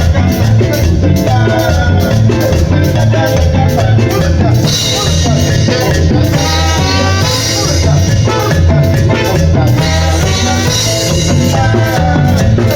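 Live cumbia band playing an instrumental stretch of a medley, with a steady dance beat over a heavy bass and a melody line on top.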